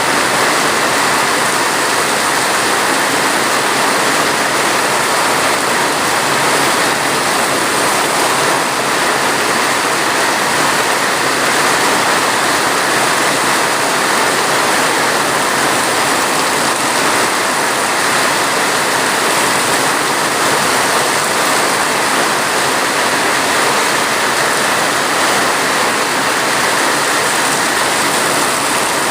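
Steady heavy rain, a dense even hiss with no single drops or tones standing out.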